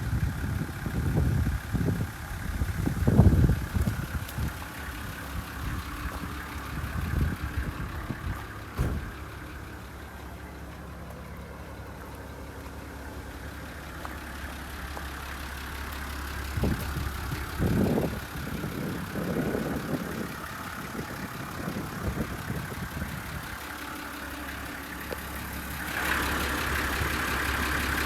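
Nissan Civilian bus's TD42 4.2-litre straight-six diesel idling steadily. There are several louder low rumbles in the first few seconds and again about two-thirds of the way through. The sound turns louder and brighter near the end.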